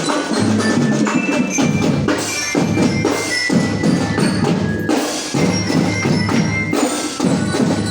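A school marching drum band playing: drums beat steadily under a melody of short ringing notes on bell lyres.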